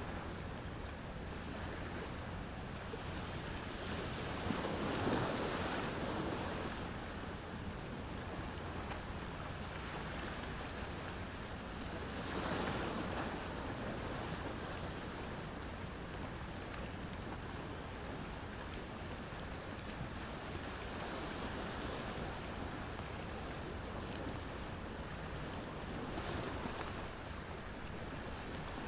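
Ocean waves washing onto the shore in a steady rush, with two bigger waves surging about five and twelve seconds in. A wood fire crackles faintly with occasional small pops.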